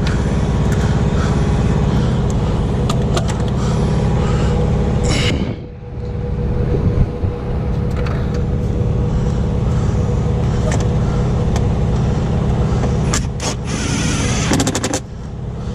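A truck engine idling steadily, with scattered clicks and, near the end, a short run of rapid clicking as parts of the air filter housing are fastened.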